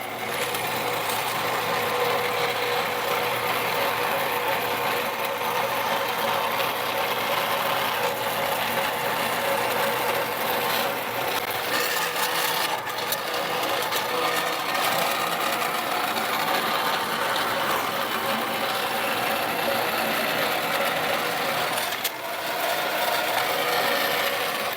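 Bandsaw running steadily, its blade cutting through a piece of metal stock, with a faint steady hum under the cutting noise.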